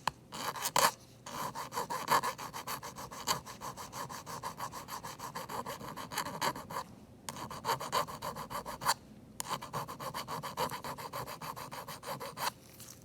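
Small metal hand file rasping in quick back-and-forth strokes on the aluminium edge of an iPad mini 5's housing. It is filing down a corner that was pulled up and taking off burrs. The strokes stop briefly twice in the second half.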